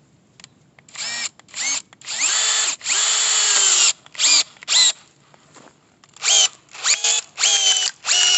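Power drill turning a screw-cone wood-splitting bit into the side of a log, run in stop-start bursts of the trigger. The motor whine rises in pitch as it spins up and sags as the bit bites into the wood.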